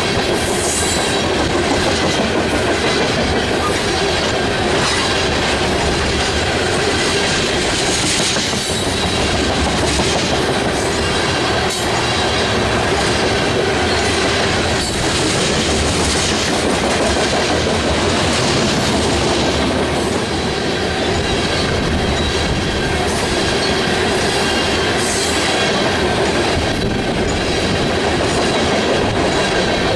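Railroad cars rolling steadily past close by, their wheels clacking over the rail joints, with a faint steady squeal from the wheels.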